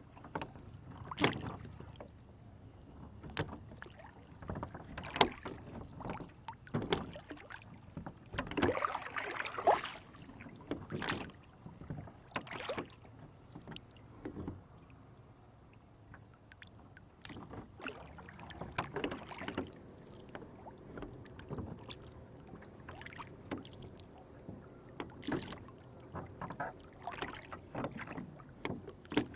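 A small rowboat on a lake, with irregular splashes and knocks of water and oars against the boat. There is a longer stretch of splashing about nine seconds in.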